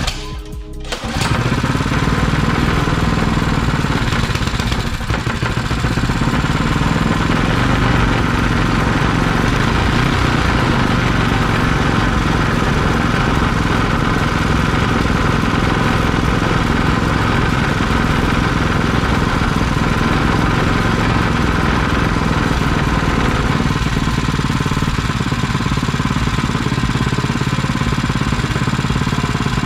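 Small go-kart engine, freshly fitted with a billet flywheel, catching about a second in on its first startup after reassembly, then running steadily.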